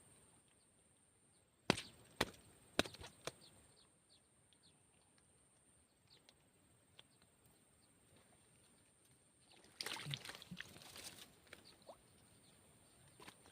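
Quiet handling noises: four sharp clicks in the first few seconds, then about a second of rustling near the end.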